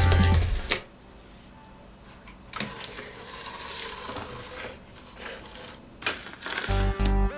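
Background music stops about a second in, followed by a few seconds of small clicks and rattles with a faint hiss, then the music comes back near the end.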